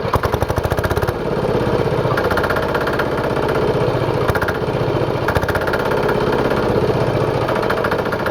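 Diesel engine with a large flywheel mounted on it, running with an even, rhythmic firing beat.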